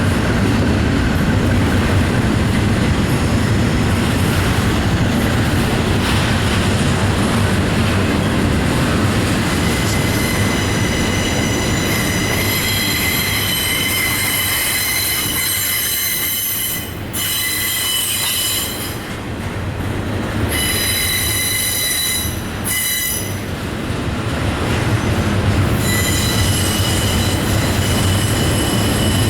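Intermodal freight train's cars rolling past with a steady rumble. From about a third of the way in, the wheels add a high squeal of several steady tones that drops out and comes back a few times.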